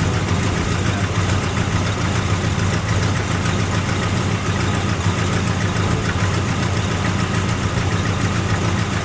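1974 Dodge's engine idling steadily while still cold from a start at about 11 degrees. It has an exhaust leak that the owners take for a cracked exhaust manifold.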